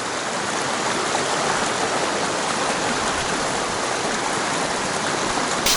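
Mountain stream water rushing steadily, with one brief sharp click near the end.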